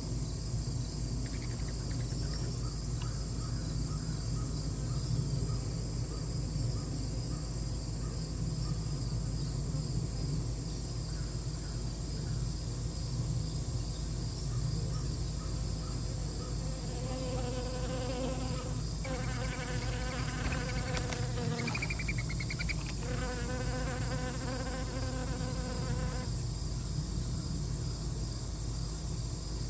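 Insects trill steadily and high the whole time. In the second half a buzzing hum of wings passes close several times, coming and going in stretches of a few seconds.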